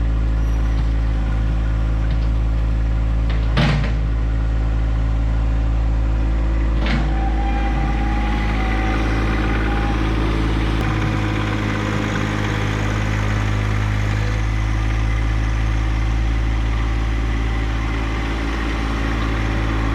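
John Deere 1025R compact tractor's three-cylinder diesel engine running steadily under backhoe work, with two sharp knocks about three and a half and seven seconds in and a short whine in the middle. The engine cuts off at the very end.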